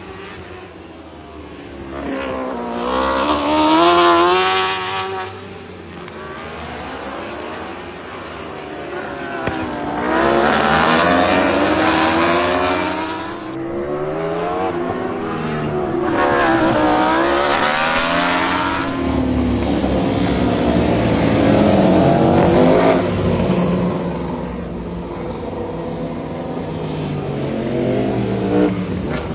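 Racing superbike engine run hard around a circuit, its pitch climbing with each gear and dropping back at the shifts and braking. The revving swells and fades several times.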